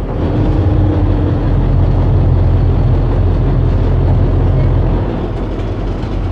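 Boat engine running with a steady low rumble, mixed with broad noise.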